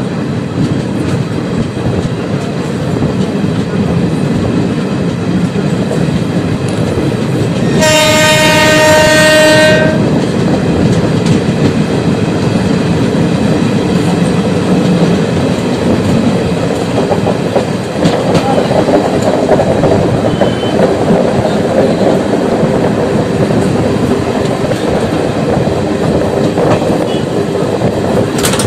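Passenger train running at speed, heard from an open coach doorway: a steady rumble and clatter of wheels on the rails. About eight seconds in, a train horn sounds one long note for about two seconds.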